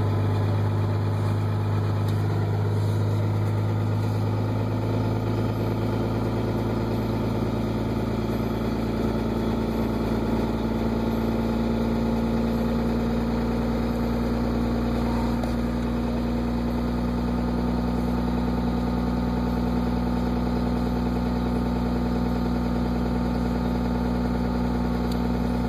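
A 1998 Dodge Ram 2500's 24-valve 5.9-litre Cummins inline-six turbo diesel running steadily at high idle after a cold start, through a straight-piped 4-inch turbo-back exhaust.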